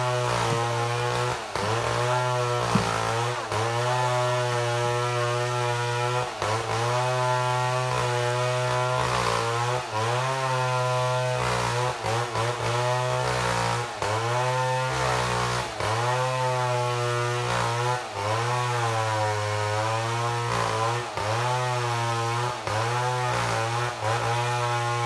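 Chainsaw mill cutting through a mahogany log, the two-stroke engine running at high revs under load, its pitch sagging and recovering every second or two as the chain bites.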